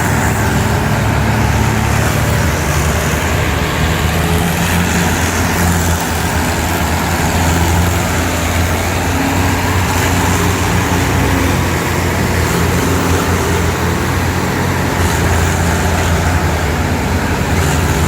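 Tractor engine running steadily under power, a continuous low hum that wavers a little in pitch.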